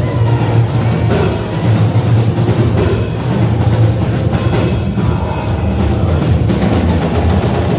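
Live church band music with a drum kit and heavy bass keeping a steady beat.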